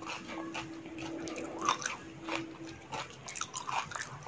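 Close-up eating of dahi puchka: crisp puchka shells filled with yogurt crunching and being chewed wetly, in quick irregular clicks and squelches.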